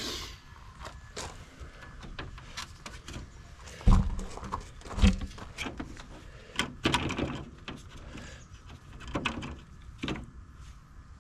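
Hand disassembly of a tractor loader joystick assembly: scattered clicks, taps and rattles of plastic and metal parts being handled, with two heavier thumps about four and five seconds in.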